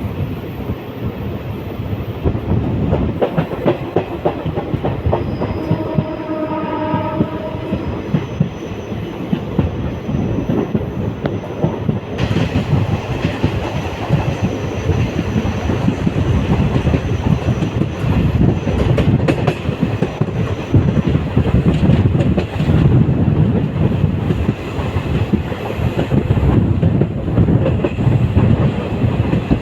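Passenger train running at speed, its wheels clattering over the rail joints with a steady rumble. A steady pitched tone sounds for about two seconds, about six seconds in.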